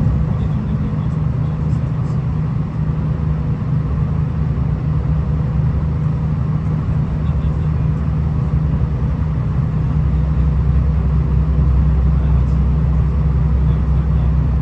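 V/Line VLocity diesel railcar running, heard from inside the carriage: a steady low rumble of the underfloor diesel engine and wheels on the track, whose deepest part grows stronger about ten seconds in.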